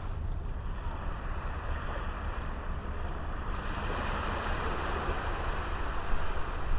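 Sea waves washing onto a beach: a steady surf hiss that swells about halfway through, over a low rumble.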